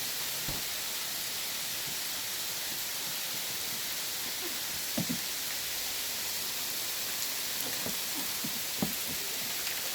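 Hail falling steadily: a dense, even hiss of ice pellets on surfaces, with a few faint separate knocks about halfway through and near the end.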